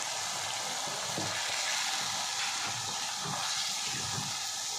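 Chicken pieces, sliced onions and tomatoes sizzling in a black karahi (wok) on a gas flame, cooking in their own tomato and onion juices with the lid off: a steady frying hiss.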